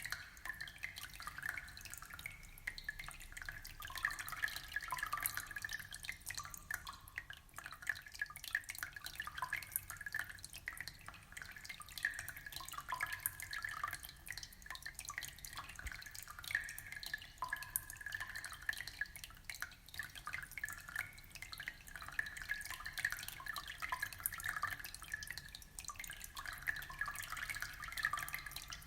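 Aquarium water trickling and bubbling: a steady, dense patter of small drips and splashes.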